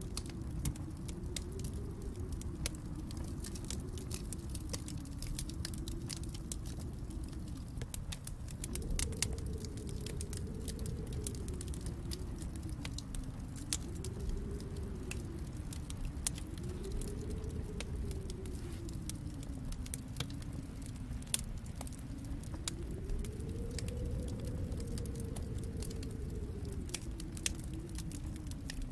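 Wood fire in a fireplace crackling, with frequent small irregular pops over a low, steady rumble that gently swells and fades.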